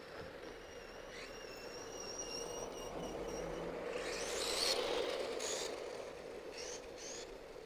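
Brushless electric motor of a mini RC monster truck (HPI Savage XS Flux) whining at speed with tyre noise, swelling as it drives past and loudest a little past halfway, then fading.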